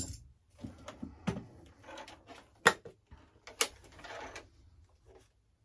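Irregular clicks, taps and knocks of the plastic and foam parts of an RC jet being handled and pried at, with two sharp clicks about two and a half and three and a half seconds in, followed by a short scraping rasp.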